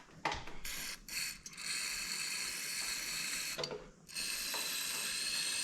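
Aerosol carb cleaner hissing as it is sprayed into the passages and float bowl of a Stromberg carburettor to flush out blockages: a few short spurts, then two long sprays of about two seconds each with a short break near the middle.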